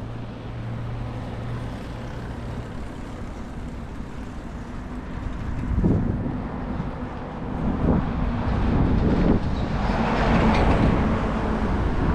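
Street traffic: a motor vehicle approaches and passes, its engine rumble growing louder from about halfway through and loudest near the end, over a steady low hum.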